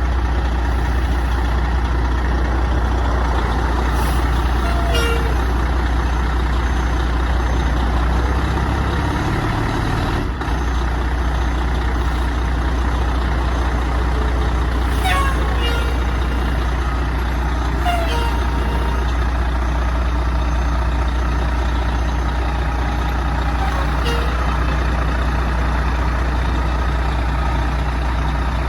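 Fire truck's diesel engine running steadily with a deep, even hum, its note shifting briefly about a third of the way in.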